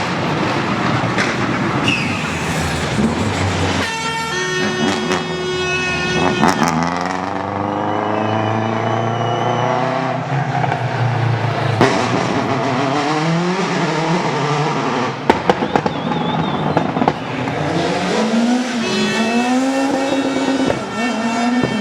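Rally car engines revving up and down repeatedly, with a quick run of sharp exhaust pops and cracks about two-thirds of the way through.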